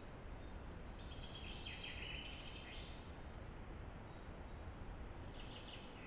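A songbird singing two short, high phrases, one about a second in lasting about two seconds, and another starting near the end, over a steady background hiss.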